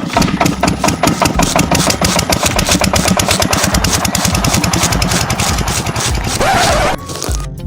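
Engine chugging fast and evenly, about nine beats a second, with a short rising whine near the end before it cuts off suddenly.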